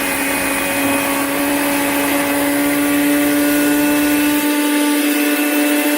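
Handheld portable car vacuum cleaner's small electric motor running at a steady speed, a constant whine over the rush of air.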